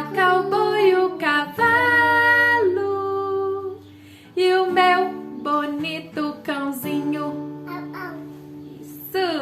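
A child singing a Portuguese children's song about farm animals, accompanied by an acoustic guitar.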